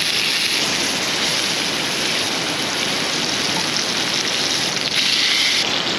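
Steady rush of a fast-flowing river, an even hiss with no breaks.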